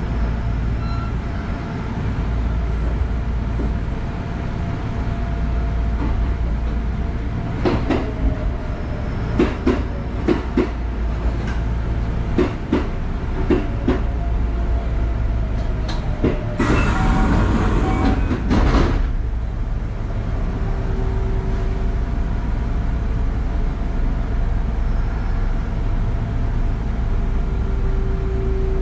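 Low steady rumble of a Kintetsu electric train heard from inside the driver's cab. An oncoming train passes alongside, and its wheels clatter over the rail joints in a run of sharp clicks for several seconds. That is followed by about two seconds of loud hissing rush.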